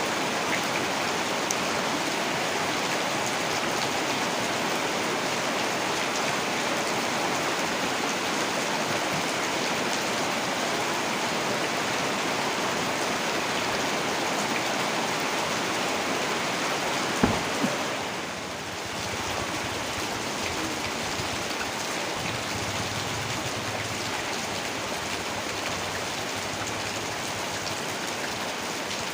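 Heavy rain falling steadily, with a single short knock about two-thirds of the way through, after which the rain is briefly quieter.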